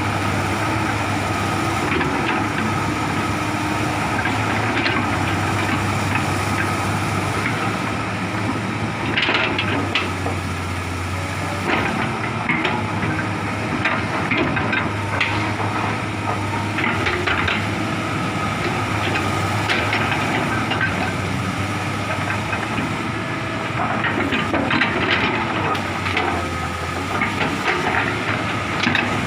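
Komatsu hydraulic excavator's diesel engine running steadily under a constant high whine. Scattered sharp cracks and knocks come from about a third of the way in, clustered in a few spells.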